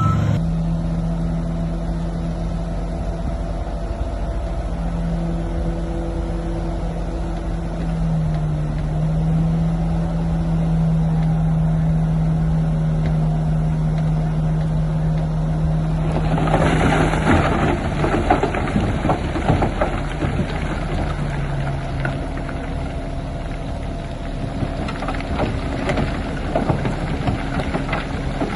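Diesel engine of heavy earthmoving machinery running with a steady low hum. A bit over halfway through, loud rattling and clanking joins in for several seconds, and returns near the end.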